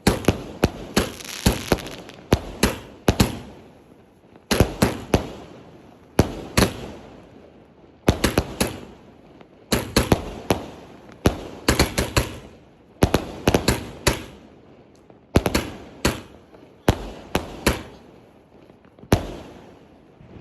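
Sky King firework going off: groups of several sharp bangs come one after another, a group every second or two, each bang ringing out and fading.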